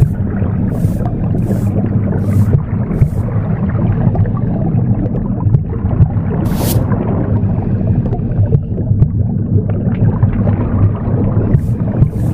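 Womb sound, a steady low rumbling noise, with a broom sweeping over it: short swishing strokes about two a second for the first three seconds, one lone stroke midway, and the strokes starting again near the end.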